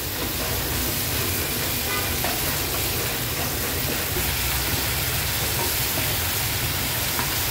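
Prawns frying in melted butter and garlic in a pan over a high gas flame: a steady sizzle with a low rumble underneath and a few faint ticks.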